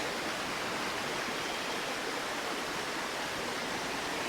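Flowing river water rushing steadily, an even wash of noise.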